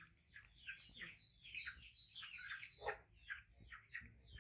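Faint, quick high chirps of small birds, several a second, each one falling in pitch, with one lower, louder call about three seconds in.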